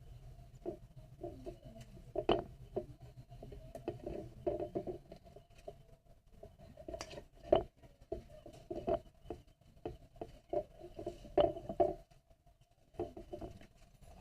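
Irregular soft taps, clicks and rubbing from hands tying knots in thread on a small wooden stick, with a few sharper knocks, over a faint steady hum.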